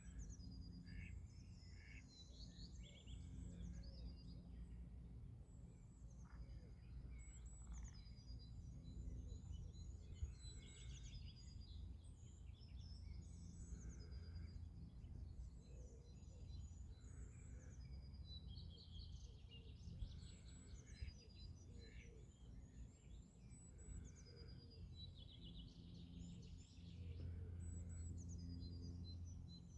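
Small songbirds chirping and singing, many short chirps and trills one after another, faint over a steady low background rumble.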